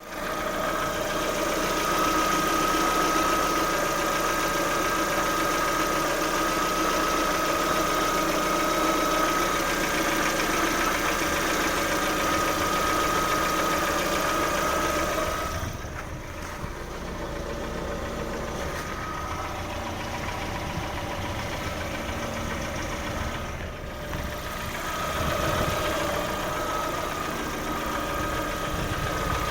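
Lada Vesta petrol engine running at idle with a knock that the owner takes for the camshaft. The sound goes duller and a little quieter for a stretch from about halfway through, then comes back near the end.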